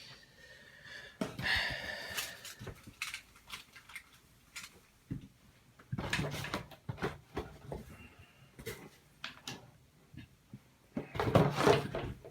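Plastic parts of a Delta Flush IQ toilet's sensor module being handled and fitted back together: a run of irregular clicks, taps and rattles, with a brief squeak about a second and a half in and a busier burst of handling near the end.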